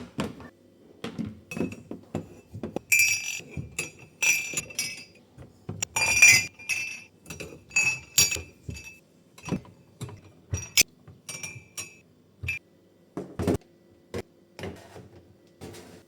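Drinking glasses clinking and knocking against each other and on a hard surface as they are handled and set down: a string of irregular clinks, several ringing briefly with a clear glassy tone.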